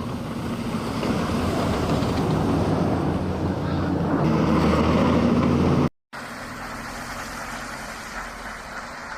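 Outdoor street noise: a vehicle's steady low engine hum under a wash of wind-like noise, growing louder over about six seconds, then cutting off abruptly and giving way to a quieter street ambience.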